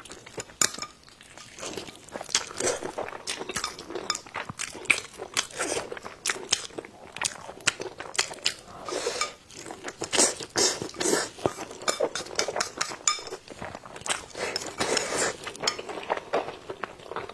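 A person eating close to the microphone: chewing and crunching, with many short, irregular clicks and clinks of utensils against dishes.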